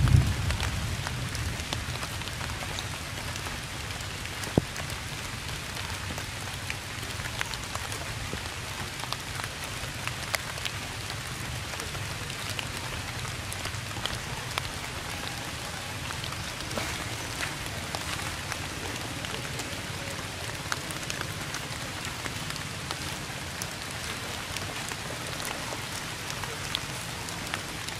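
Steady rain falling on tree leaves, an even hiss dotted with small drip ticks and one sharper drop about four and a half seconds in. At the start the tail of a low thunder rumble dies away within the first second.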